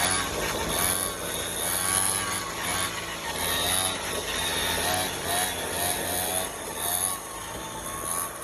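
X3 pocket bike's small two-stroke engine running, its revs rising and falling again and again.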